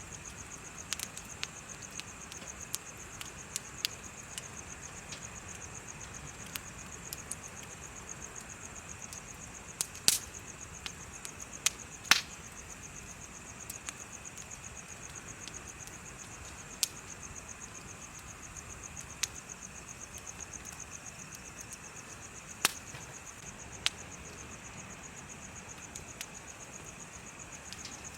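Insects chirping in a steady, fast-pulsing high trill, with a wood bonfire crackling and popping now and then; the loudest pops come about ten, twelve and twenty-three seconds in.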